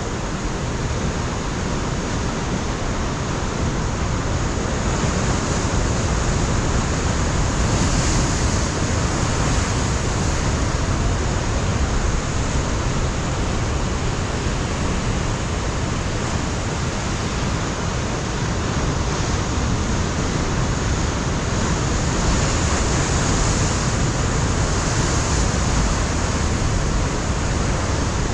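Ocean surf breaking on a rocky coastline: a continuous rush of water that swells twice, about a third of the way in and again near the end.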